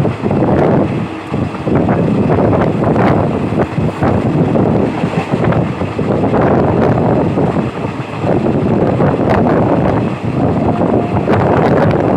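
Wind rushing and buffeting the microphone over the running noise of a moving passenger train, heard from on board. It is loud and gusty, rising and falling every second or so.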